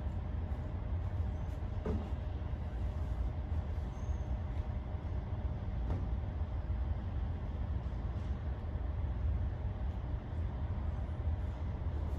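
Steady low rumble with a faint steady hum above it, and a couple of light knocks.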